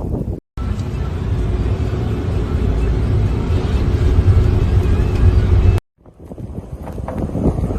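Steady low rumble of a vehicle driving, with a faint steady hum on top. It cuts off sharply twice, about half a second in and again near the end.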